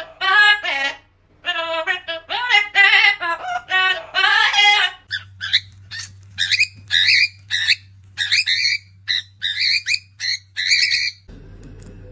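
A high sing-song voice for about five seconds, then a parrot giving a quick string of short chirps and whistles. Near the end these stop and a steady low hum takes over.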